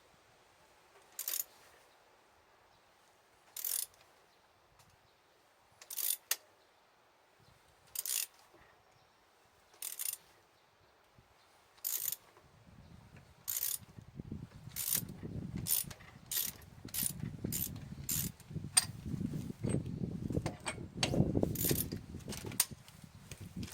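A hand tool ratcheting in short sharp clicks at even strokes: about one every two seconds at first, then about one a second. A low rumbling noise comes in about halfway through.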